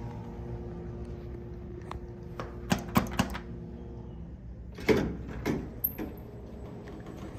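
Empty elevator car travelling up with a low vibrating rumble and a steady hum, the fault that appears only when the car runs up empty. A run of clunks and knocks comes about three seconds in and again about five seconds in.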